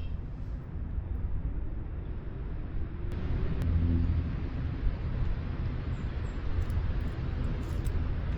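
Wind buffeting the microphone outdoors, a steady low rumble, with a faint rising hum near the middle.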